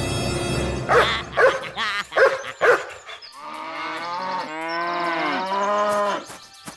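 A dog barks about five times in quick succession, then gives a long wavering whine that rises and falls over and over before stopping near the end.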